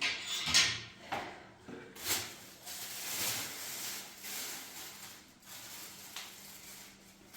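Household objects being handled: a few sharp knocks in the first two seconds, then a stretch of scraping or rustling, and fainter knocks near the end.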